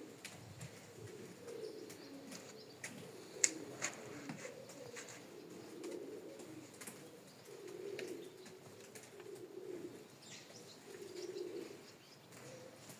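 Domestic pigeons cooing in low, repeated phrases, with a few sharp clicks about three and a half seconds in.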